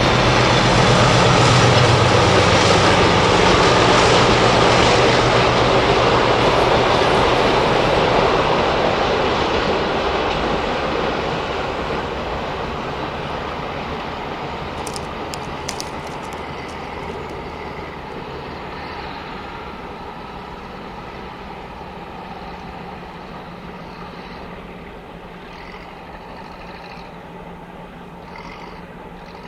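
Diesel-hauled freight train passing close by: the locomotive's engine is heard in the first few seconds, then the rumble of the wagons on the rails fades slowly as the train moves away.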